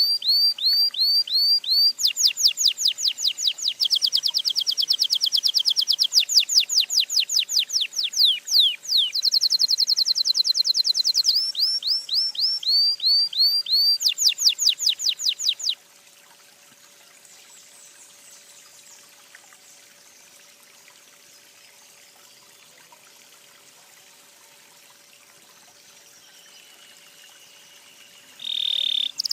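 A songbird singing loud, rapid series of sharply down-slurred whistled notes, several a second, in phrases that change pitch every couple of seconds. The song stops abruptly about halfway through, leaving only faint background hiss. A new high-pitched call starts just before the end.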